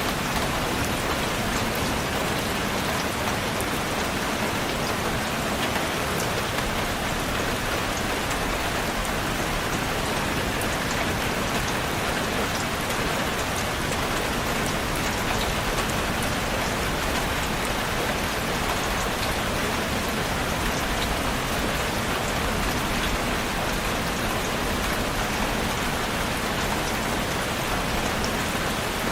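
Steady rain falling on a surface, an even rushing hiss with scattered individual drop ticks.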